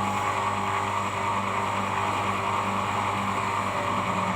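Electric motor running steadily with a hum, most likely the blade-sharpening machine's spinning disc.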